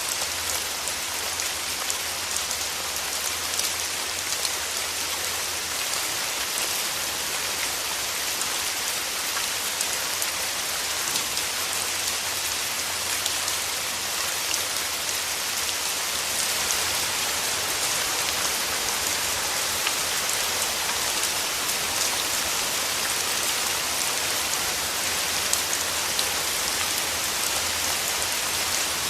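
Steady rain falling: an even hiss of rain with many small drop ticks, holding at the same level.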